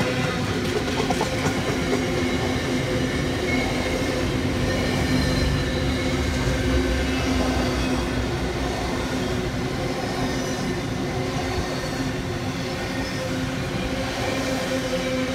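Container freight train's wagons rolling past close by: a continuous loud rumble of steel wheels on rail, with steady ringing tones over it.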